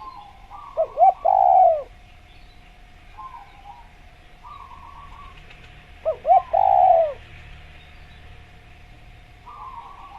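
Spotted dove calling twice, about five seconds apart: each call is two short coos and then a longer, falling coo. Softer trilled calls of another bird sound between them, over a faint steady high tone.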